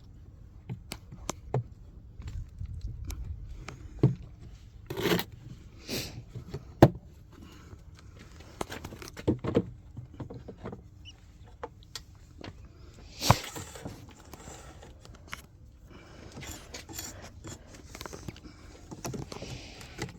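Handling of wooden beehive frames and comb: irregular clicks and knocks with scraping and rustling, and two louder knocks about 7 and 13 seconds in.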